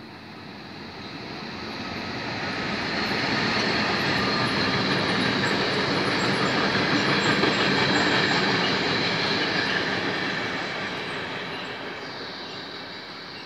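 Freight train passing close by on the track: the locomotive, then a line of wagons rumbling and rattling over the rails. It swells as it comes near, is loudest in the middle, and fades as the wagons run past.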